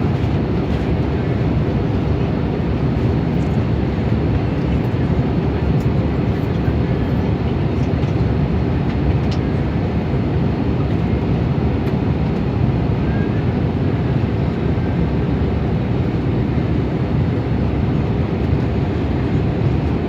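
Steady low rumble of an Airbus A320neo's engines and airflow, heard from inside the passenger cabin.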